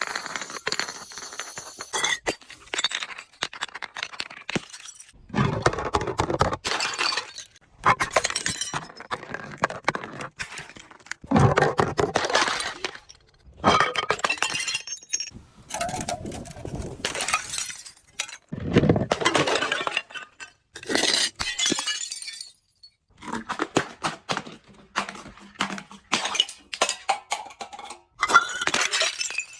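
Glass being crushed and broken in a series of crunching bursts, each lasting about a second with short pauses between, and shards clinking.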